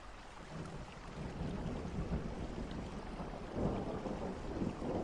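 Thunderstorm: steady rain with low rolling thunder that swells about half a second in and again near the end.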